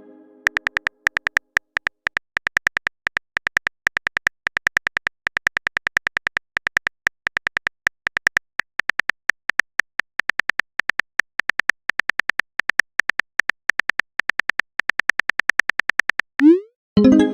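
Chat app's keyboard-typing sound effect: a rapid run of short, identical electronic tap clicks, about four to five a second with brief pauses, as a text message is typed out.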